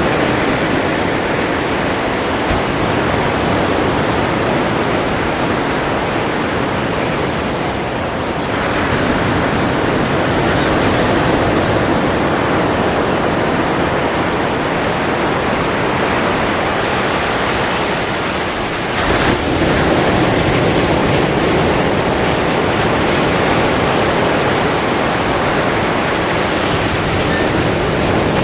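Ocean surf: a steady, dense wash of breaking waves that shifts abruptly twice, about a third of the way in and again about two-thirds in.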